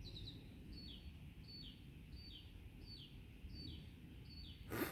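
A bird calling over and over, faint, a short high note that slides down in pitch, about once every 0.7 seconds. A sharp click near the end.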